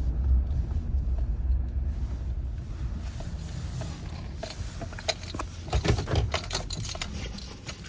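Low road rumble of a truck heard from inside the cab, fading as the truck slows. A cluster of sharp clicks and knocks comes in the middle of the fade.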